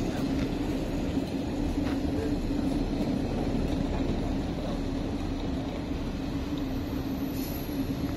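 Steady mechanical hum from a green passenger train standing at the platform, one constant tone over a low rumble.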